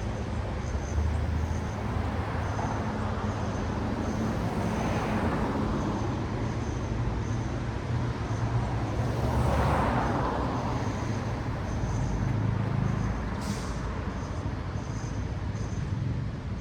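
Road traffic: vehicles passing one after another, their tyre noise swelling and fading about five and ten seconds in, over a steady low engine rumble. A brief hiss comes about thirteen seconds in.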